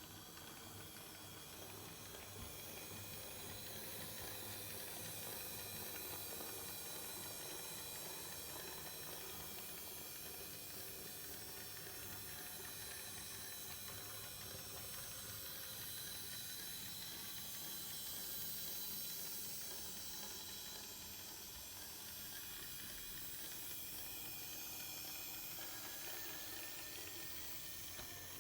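Small electric motor of a 009 gauge model locomotive running along the track: a faint, steady hiss with thin high whining tones that hardly change.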